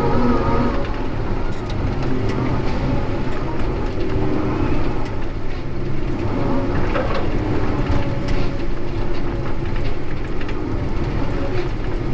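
Heavy diesel logging machinery running steadily, engine rumble with a wavering hydraulic whine and a few brief knocks.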